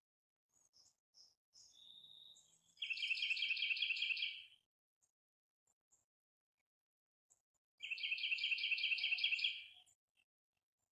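A songbird sings a fast, even trill of rapidly repeated notes, twice, about five seconds apart. Softer, high chip notes come before and between the trills.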